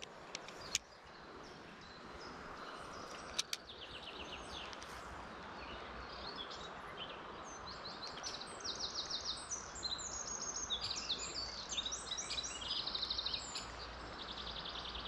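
Songbirds singing in fast repeated trills over a steady outdoor hiss, with a few sharp clicks in the first few seconds.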